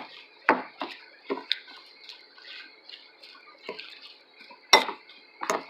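Cutlery clinking and tapping against a plate while a salad is eaten: scattered sharp clicks, the loudest one near the end.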